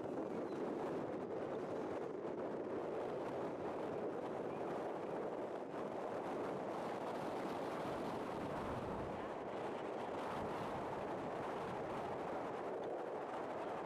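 Strong wind blowing across the microphone: a steady, dense rush of noise with no distinct engine or motor tone.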